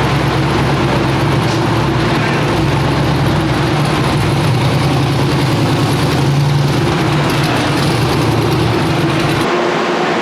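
Car engine idling steadily with a deep, even hum. The lowest part of the hum drops away suddenly about nine and a half seconds in.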